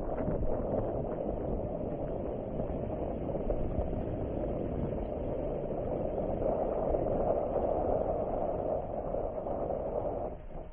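Motorcycle engine running steadily on the move, its engine noise mixed with rushing air; the sound drops away sharply shortly before the end.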